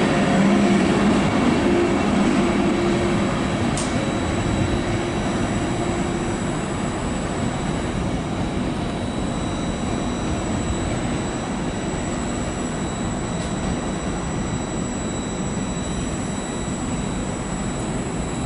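E414 electric power car and Intercity coaches pulling away. The steady running noise slowly gets quieter as the train recedes, and a low hum fades out in the first few seconds.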